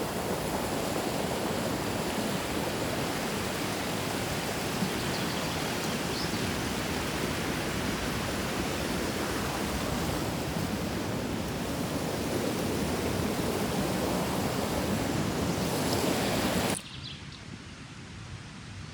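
A mountain river rushing: a steady, loud rush of water. It cuts off suddenly near the end, leaving a much quieter background hiss.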